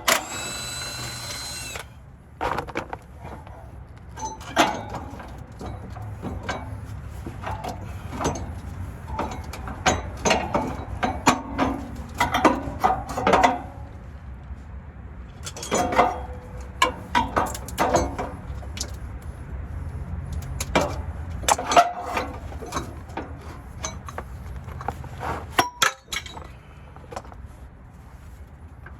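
A power tool runs in one burst of about two seconds, then hand tools knock and clank irregularly on metal: parts being unbolted while a 4L60E transmission is pulled from a junked truck.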